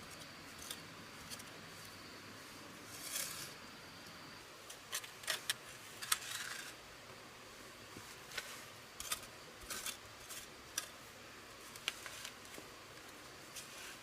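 Light, irregular clicks and taps of small objects being handled over a faint steady hiss. A thin, faint high tone holds for the first few seconds.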